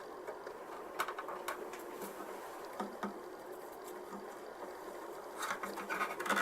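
A scribing tool scratching along a plastic model kit's panel line freehand, with a few light clicks and then a quicker run of scratches near the end.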